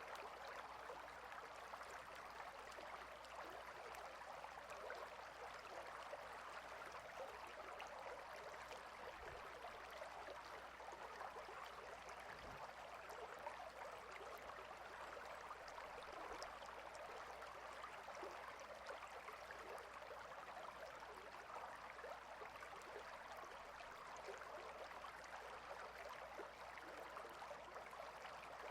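Quiet, steady flowing of a water stream, babbling evenly without change.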